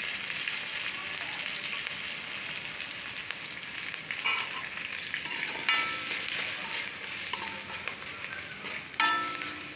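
Chopped onion, garlic, green chilli and spices sizzling in hot mustard oil in a metal kadai, with a steady hiss. A steel ladle stirs them, scraping and clinking against the pan a few times, loudest near the end.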